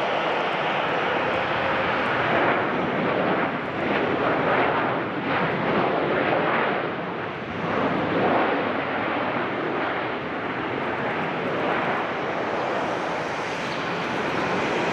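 Passenger jet landing on a wet runway, its engines loud under reverse thrust. The noise swells and wavers from about two seconds in until about eight seconds in, then eases to a steadier, slightly lower rumble.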